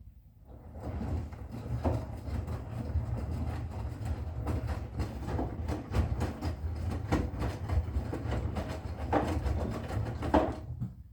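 Bosch Serie 6 front-loading washing machine drum turning during a wash for about ten seconds, with a low motor rumble and laundry tumbling with scattered knocks, then stopping.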